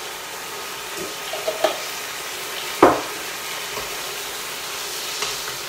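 Stir-fry of seitan and vegetables in satay sauce sizzling in a wok while a wooden spatula stirs it, the sauce near the boil. About three seconds in comes a single sharp knock.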